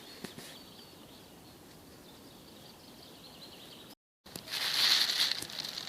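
Spring meltwater stream: a faint steady rush with a few small ticks, then, after a brief cut to silence about four seconds in, much louder close-up trickling and splashing water.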